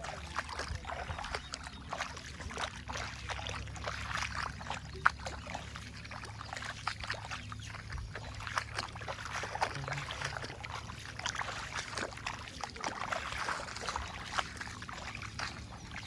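Sonalika DI 745 tractor's diesel engine running at a steady low hum, while wet mud and water slosh and splash irregularly over it, with one sharp knock about five seconds in.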